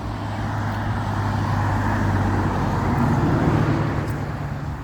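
A motor vehicle passing on the road, its engine and tyre noise building to a peak about three seconds in, then easing off.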